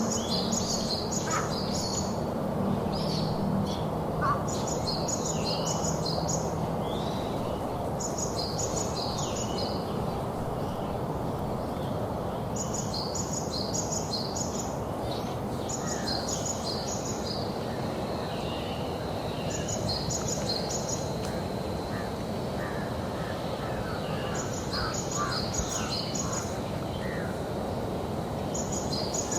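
Birds calling: short bursts of rapid, high chirps repeating every few seconds over a steady background hiss.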